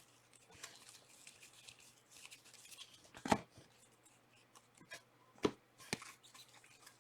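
Trading cards being handled: faint sliding and rustling, with a few sharp clicks, the loudest about three seconds in and another about five and a half seconds in.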